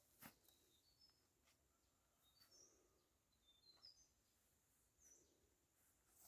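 Faint outdoor quiet with small birds chirping: short high notes scattered through, and a faint click about a quarter second in.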